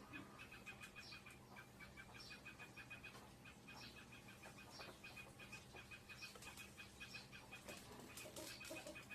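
Faint bird chirping: quick repeated chirps, several a second, with a higher call about once a second, over a steady low hum.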